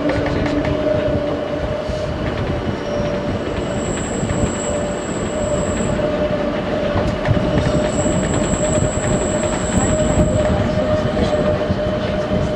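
Train running along the track, with a steady rumble, a steady mid-pitched whine and a clatter of clicks over the rails. A high wheel squeal comes in twice, once a few seconds in and again around the middle, as the wheels grind on curves.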